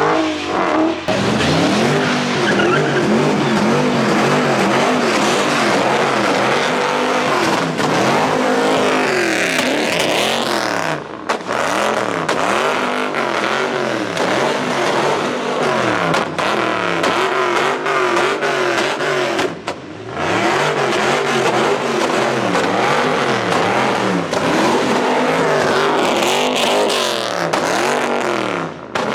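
Car engines revving up and down over and over with tyre skidding noise as cars spin in a street-takeover pit, with brief breaks about a third and two thirds of the way in.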